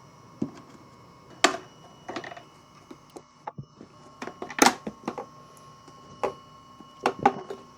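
Scattered clicks and light knocks of plastic headlight parts being handled and fitted into a headlight housing, at irregular intervals, over a faint steady background tone.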